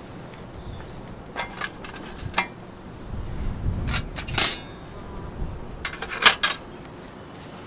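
Metal cookware and utensils being handled: scattered clinks and knocks, one with a short metallic ring about halfway through and a sharper strike a couple of seconds later.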